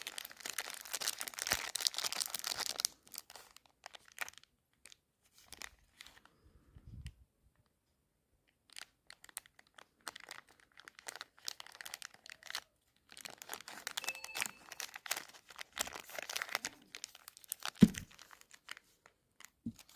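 Plastic chocolate-bar wrappers being crinkled and torn open by hand, in clusters of crackling with quiet pauses between them. A single sharp knock near the end is the loudest sound.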